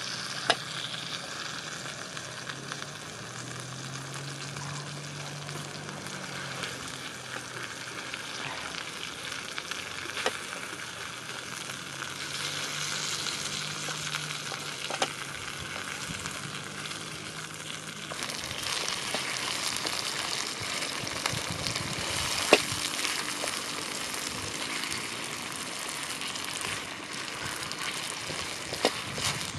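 Tapioca-dough pieces and spice paste sizzling in oil in a black pan over a wood fire, stirred with a wooden stick that knocks sharply against the pan a few times. The sizzle grows louder about two-thirds of the way through.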